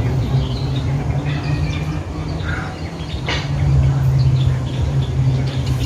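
Birds chirping in short calls over a steady low rumble, with a single sharp click about three seconds in.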